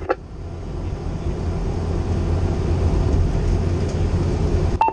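Cummins L9 diesel engine of a fire engine pulling under acceleration, a low drone that builds steadily louder. Near the end it drops off abruptly, with a brief click and a short beep.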